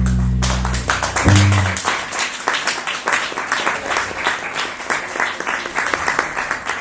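Bass guitar's final low notes ring out and stop about a second and a half in. Audience applause starts under them and carries on.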